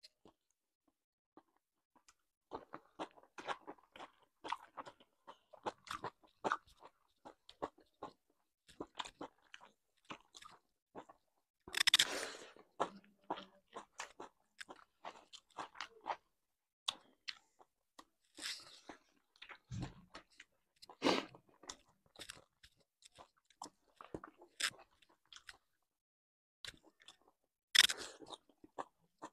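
Close-miked eating: wet chewing and biting on mouthfuls of pork and broccoli, broken by sharp crunches, the loudest about twelve seconds in and again near the end.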